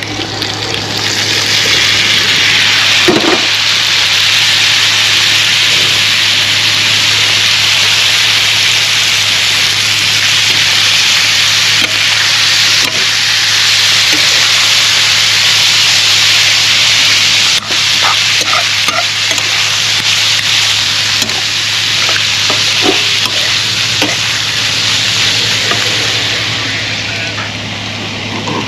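Ackee and saltfish with sweet peppers and onion frying in a pan on a gas burner: a loud, steady sizzle that builds about a second in as the ackee goes in. A metal spoon stirs the mix now and then, with a few light clicks against the pan.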